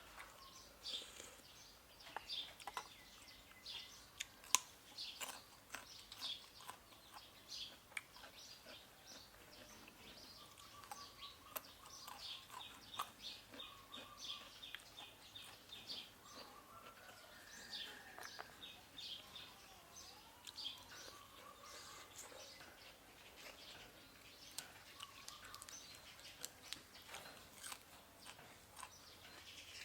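Faint close-up chewing and crunching of food, with many short crisp clicks, while small birds chirp in the background.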